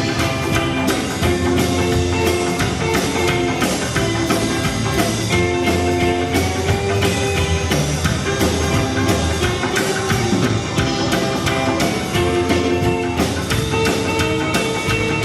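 Rock band playing an instrumental passage with no singing: a drum kit keeps a steady beat under held guitar and instrument notes.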